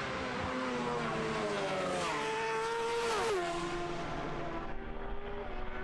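Racing motorcycle engine at high revs. The pitch climbs, then drops sharply a little over three seconds in, as at a gear change, and then holds steady.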